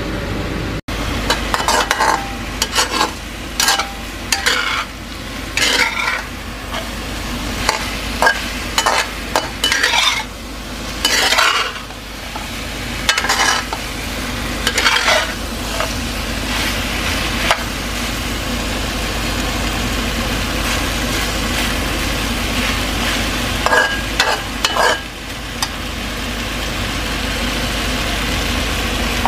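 Chicken pieces and onions sizzling as they sauté in a frying pan, with a utensil scraping and knocking against the pan as they are stirred, often during the first half and again briefly a little before the end.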